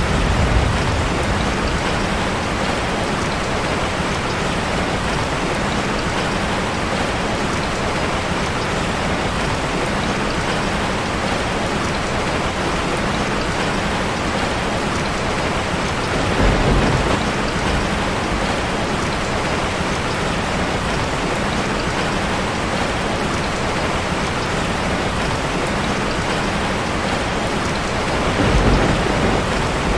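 Steady heavy rain drumming on a metal roof, with two brief low rumbles, one about halfway through and one near the end.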